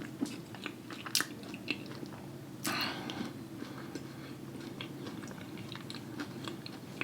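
Close-miked chewing with wet mouth clicks and smacks, scattered irregularly over a low steady hum, with a short rush of noise about three seconds in.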